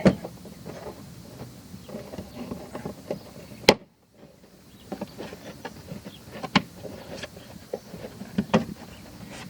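Scattered clicks, knocks and rustling of plastic being handled on a car's front wheel-well area as a part is pried back and worked free, with a sharp snap a little under four seconds in and a few more sharp clicks later.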